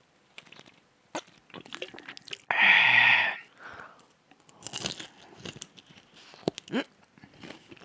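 Close-miked crunching bites and chewing of deep-fried seafood (squid and shrimp tempura), a run of small crisp crunches. A loud, short voiced exclamation comes about two and a half seconds in.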